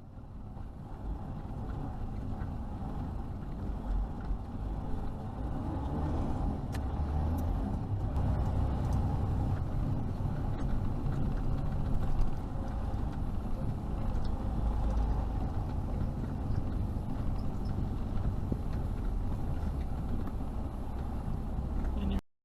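Steady road and engine noise of a car driving, as recorded by a dashcam.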